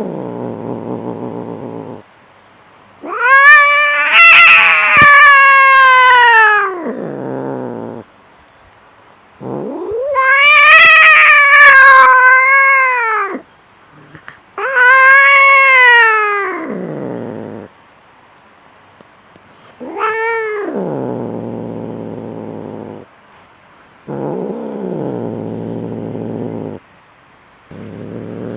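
Cats fighting: four long, loud yowls that rise and fall in pitch, with lower, quieter growling between them.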